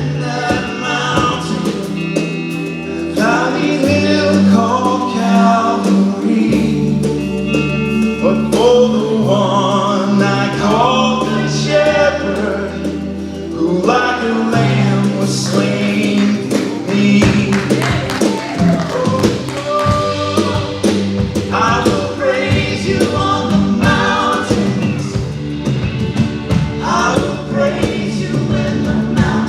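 Live worship music: singers over a band with sustained bass notes and a steady drum beat.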